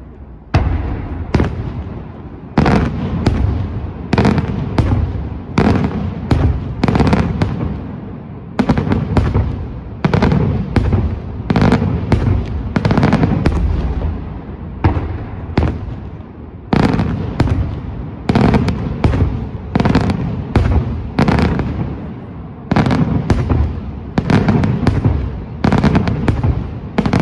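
Daytime fireworks display: aerial shells bursting in rapid bangs, coming in quick clusters about every second or two over a continuous low rumble.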